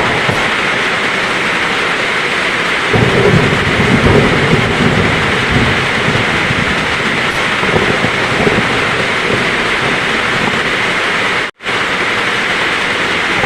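Heavy rain falling steadily, with low rolling thunder rumbling in about three seconds in and trailing off over the next few seconds. The sound drops out for a split second near the end.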